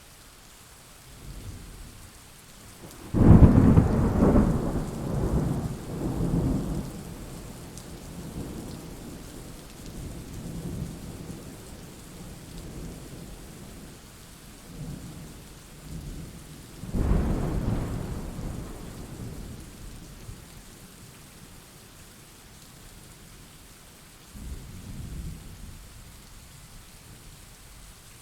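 Thunderstorm: heavy rain falling steadily with thunder. A loud thunderclap breaks suddenly about three seconds in and rumbles on for several seconds, a second clap comes a little past the middle and rolls away, and a weaker rumble comes near the end.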